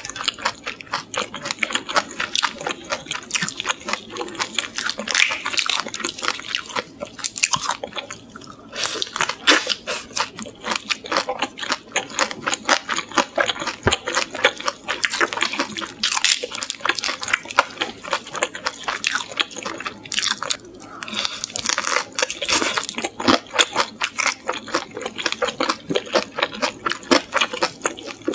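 Close-up chewing and crunching of butter-fried shrimp heads, shells and all: a dense run of crisp crackles with a couple of brief pauses.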